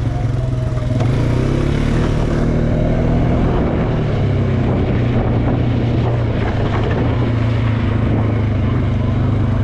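ATV engine running while riding, its pitch climbing between about one and three seconds in as it speeds up, then holding fairly steady.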